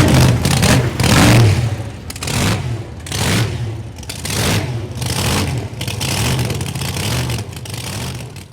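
Car engine revved in repeated bursts, about one a second, growing fainter near the end.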